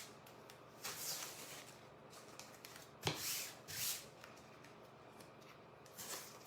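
Adhesive plastic stencil being handled and rubbed, giving about four brief rustling strokes.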